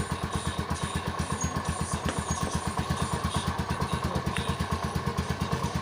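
TVS Tempo three-wheeler's single-cylinder engine idling steadily with an even, rapid pulse, just rebuilt with new valves and piston.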